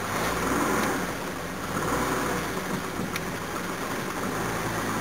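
1969 Jaguar XJ6's straight-six engine running in reverse gear, its note swelling twice early on as it is given throttle. The automatic gearbox's clutches are slipping, which the owner calls burning clutches, from a gearbox he believes has a broken sprag clutch.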